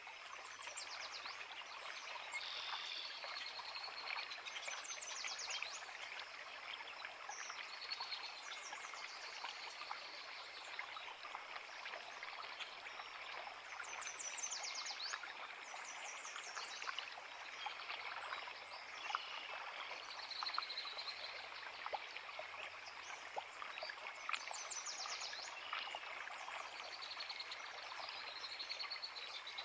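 A small forest creek babbling steadily over rocks, with several songbirds singing over it. Short high phrases and quick trills come every few seconds.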